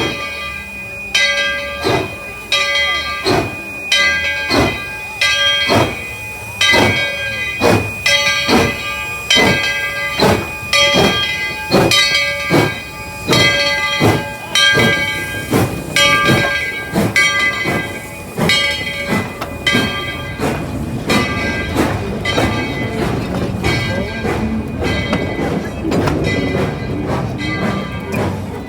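Locomotive bell ringing steadily, about three strokes every two seconds. About twenty seconds in the strokes fade and the rumble of the moving train grows.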